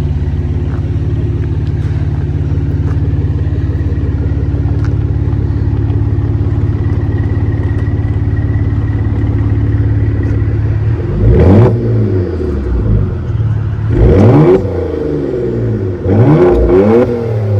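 Porsche engine with a muffler-delete exhaust idling steadily, then blipped three times about two and a half seconds apart, each rev rising quickly and falling back to idle.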